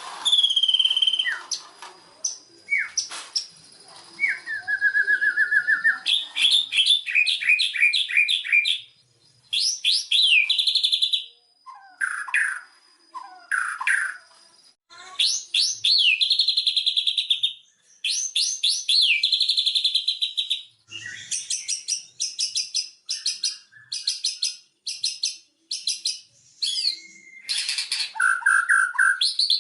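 White-rumped shama singing a long, varied song of whistled slurs, rapid trills and fast runs of repeated notes, with brief pauses between phrases.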